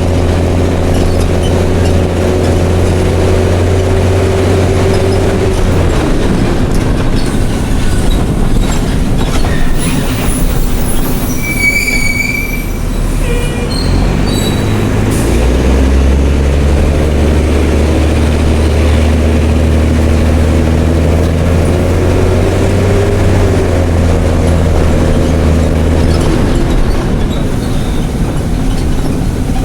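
Mercedes-Benz OM366LA turbocharged six-cylinder diesel of a city bus running through an open, unsilenced exhaust. Its low drone falls away about six seconds in, a brief high squeal comes near the middle, and the engine pulls strongly again from about sixteen seconds until near the end.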